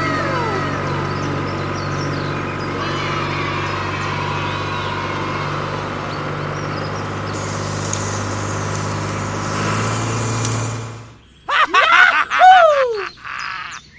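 A steady, low engine drone from a tractor sound effect. Near the end it cuts out and a few loud, squeaky, high-pitched cartoon sounds follow, one sliding down in pitch.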